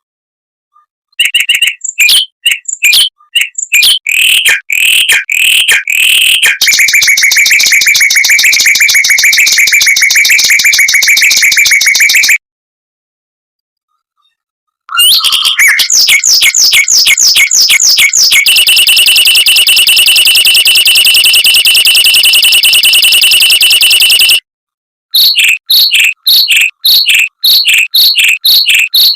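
Mockingbird song played loud: a run of separate sharp notes leading into long, very fast, even trills lasting about six seconds each, with two short silences between phrases.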